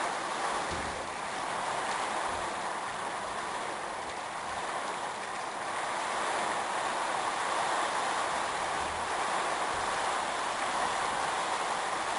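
Heavy rain and strong gusting wind of a severe thunderstorm, a steady rushing noise that swells and eases slightly, with a few faint low thuds.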